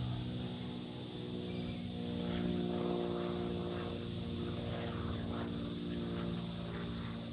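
Aircraft flying over, its engines droning steadily with several held tones.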